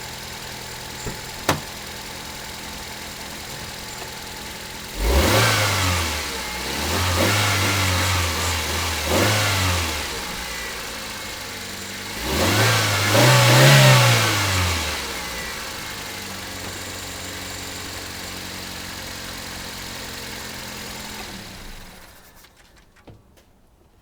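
Toyota Corolla four-cylinder engine idling, revved in a few quick blips about five seconds in and again in one longer rev around twelve seconds, then settling back to idle before it is switched off near the end. It runs smoothly, the cylinder-4 misfire apparently gone after the fuel injectors were swapped.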